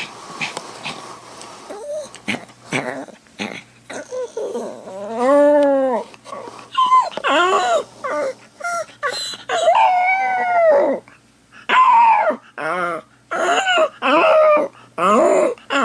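A dog whimpering softly, then from about five seconds in howling in a run of rising-and-falling cries, about one a second: the separation distress of a dog left alone while its owner is away.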